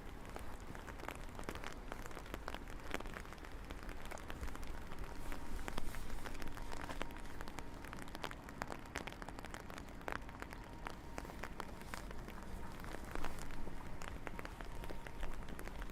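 Steady rain falling, with many separate drops heard as sharp ticks over an even hiss.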